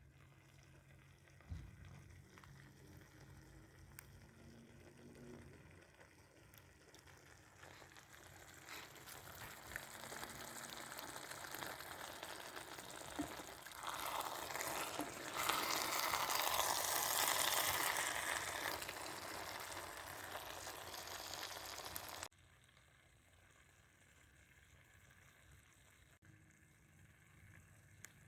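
Food frying in a pan, a crackling sizzle that grows louder through the middle, then drops suddenly to a quieter sizzle.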